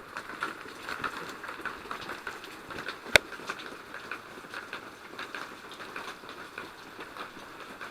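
Light, steady pattering and trickling of water, with many small drips. A single sharp click about three seconds in.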